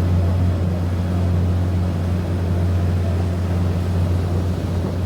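Passenger ferry's engines running steadily under way, a loud, even low drone, with wind and water noise rushing over it.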